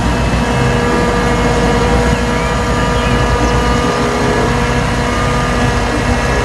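Dump truck engine running steadily, a continuous low rumble that cuts off suddenly just after the end.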